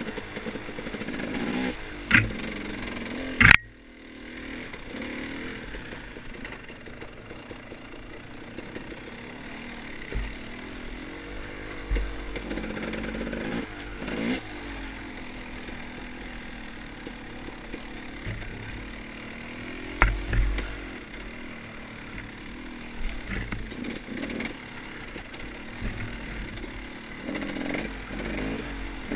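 Off-road motorcycle engine running under varying throttle, its revs rising and falling over and over, with a few sharp knocks and clatters, the loudest a few seconds in and again about two-thirds of the way through.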